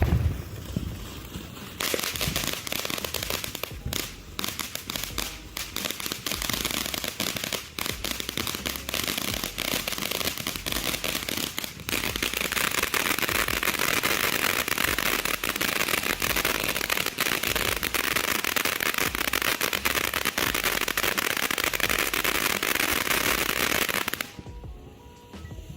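Freedom Fireworks Happy Trolls consumer fountain burning with flying fish effects and a strong, dense crackle of rapid pops. The crackle starts about two seconds in, grows louder and thicker about halfway through, and cuts off shortly before the end as the fountain burns out.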